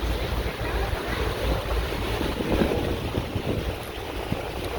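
Wind buffeting the microphone, an uneven low rumble over a steady rush of water and boat noise aboard a moving boat.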